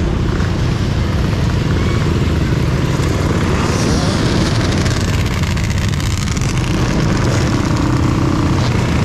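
Steady wind rumble and road noise from riding an electric dirt bike, with a faint rising and falling high whine near the middle.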